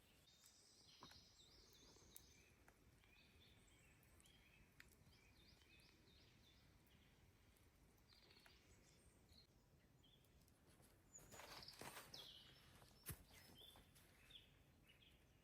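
Near silence in the woods: faint chirps of small birds. About eleven seconds in comes a brief, louder rustling noise, and a second or so later a single sharp click.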